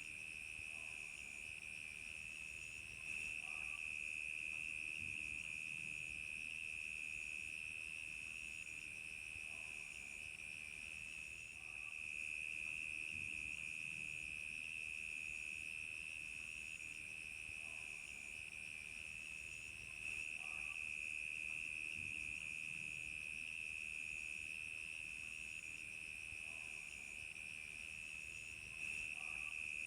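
Crickets chirping in a continuous chorus: one steady high trill, with a faster, evenly pulsing chirp above it.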